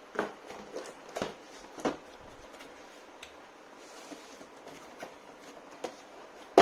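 Unboxing handling: a few light knocks and rustles in the first two seconds, faint ticks after, and one sharp knock at the very end as something is set down or snapped shut.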